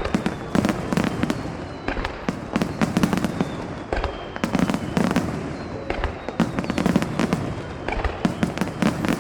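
Fireworks display: rapid volleys of shells bursting, a cluster of sharp cracks and low booms about every second, with a few faint whistles.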